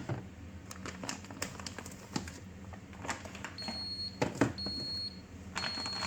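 Refrigerator's door-open alarm beeping: three high, steady beeps about a second apart, sounding because the door has been held open too long. Light clicks and knocks of containers being handled run underneath.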